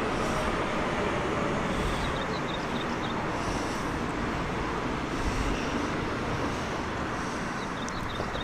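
A train running past with a steady rumble of wheels on rail, with a few faint high squeaks about two seconds in and again near the end.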